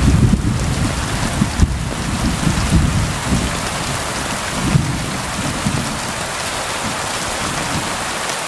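Steady rain falling on a window pane, with a low rumble underneath that dies away about six seconds in.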